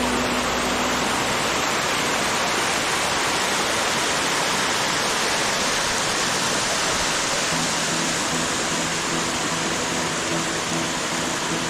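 A steady rush of water noise, like heavy rain or a mountain stream. Background music joins it faintly about two thirds of the way in.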